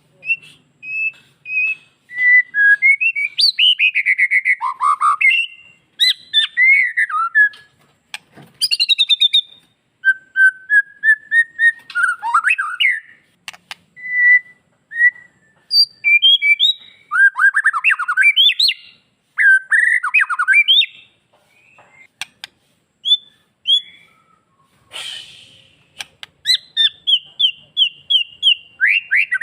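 White-rumped shama (murai batu) song: a varied run of loud whistled phrases, fast trills and downward-sweeping notes in bursts separated by short pauses, with a harsh rasping note about 25 seconds in.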